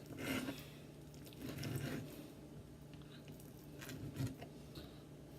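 Knife cutting through raw chicken on a cutting board, with pieces being handled: three faint, soft, squishy cuts spread over a few seconds.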